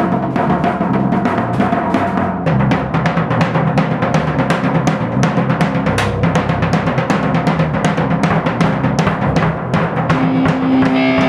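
A rock band starting to play loudly: fast, dense drum-kit beats over bass and guitar, with a held note coming in near the end.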